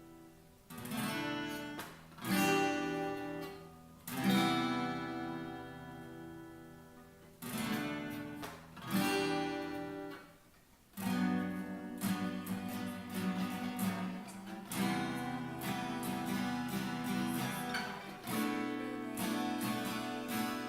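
Acoustic guitar, strummed chords with no voice. The first half is a few single strums, each left to ring out; from about halfway it settles into steady strumming.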